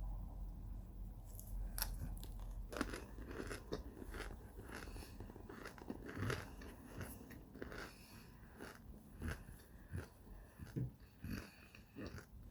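Close chewing of crunchy microwaved cornstarch chunks: many short, sharp crunches that begin about a second and a half in and keep on.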